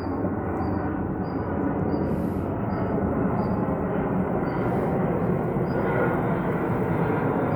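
Airplane engine noise: a steady, dense rumble that grows slowly louder. Over it, a faint short high chirp repeats about every 0.6 s and fades out near the end.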